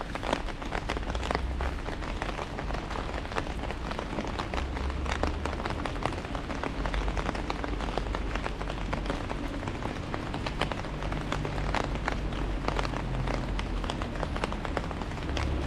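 Heavy rain falling on an umbrella overhead, a dense run of sharp drop hits over a steady rush. A low rumble comes and goes underneath.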